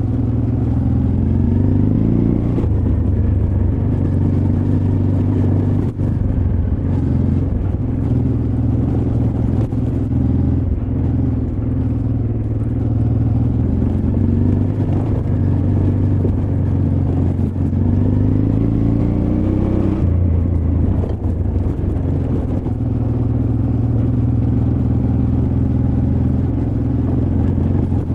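Honda Transalp XL600V's V-twin engine running under load on a rough trail, the revs climbing in gear several times and falling back sharply about twenty seconds in, as the throttle is rolled off or a gear changed.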